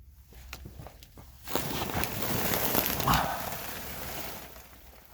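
A person crawling through a crawl space: a few light scrapes and clicks, then a louder few seconds of scraping and rustling from about a second and a half in.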